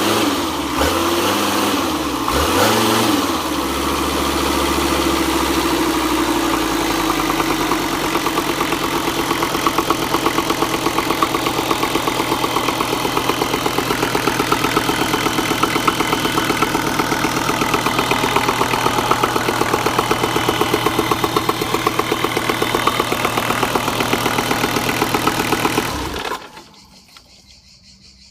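Nanni 5.250TDI marine turbodiesel on a test run after overhaul: revved up and down several times, then settling to a steady idle, and switched off about 26 seconds in, stopping suddenly.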